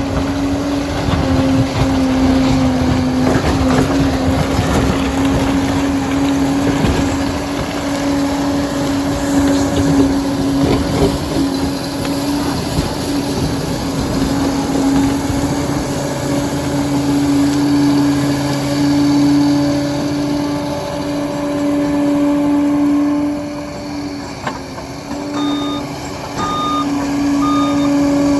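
Liebherr 746 crawler dozer's diesel engine running hard with a steady drone and clatter from the tracks and blade. The engine eases off briefly near the end, then the reversing alarm starts beeping in a steady rhythm, about one beep a second.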